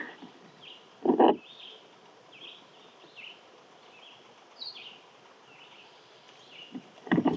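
Small birds giving short, repeated chirps, about one or two a second. A loud, brief burst of noise comes about a second in and again at the end.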